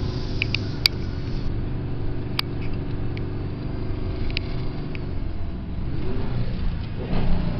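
Ford pickup truck engine running steadily, with a few sharp clicks about a second in and again past two seconds; near the end the engine note rises and a louder rush of noise comes in.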